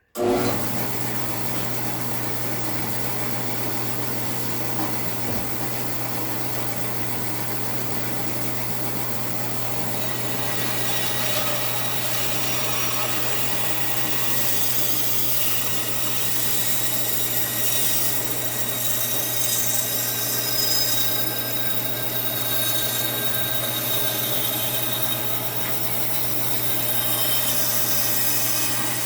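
2002 Central Machinery 14-inch bandsaw starting up and running with a steady motor hum. About ten seconds in, the blade begins cutting through wood, adding a sawing hiss that rises and falls as the piece is fed.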